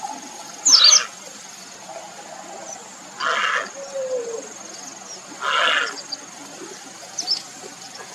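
Grey heron giving harsh, rasping croaks, three short calls a couple of seconds apart, the first the loudest: its call to attract a mate.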